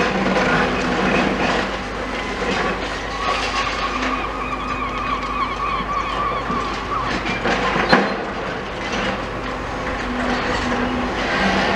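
Demolition excavator tearing at a building: stony and metally creaks of the structure being pulled apart. A long, high metal squeal starts about three seconds in, and a sharp crack comes about eight seconds in.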